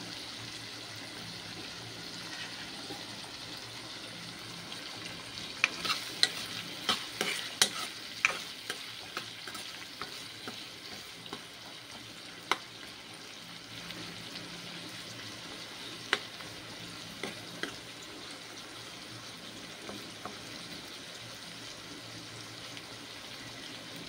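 Tomatoes, onions, green chillies and curry leaves frying in oil in a non-stick kadai, a steady sizzle. A metal spoon stirring clicks against the pan in a quick run of sharp taps about six to eight seconds in, with a few single clinks later.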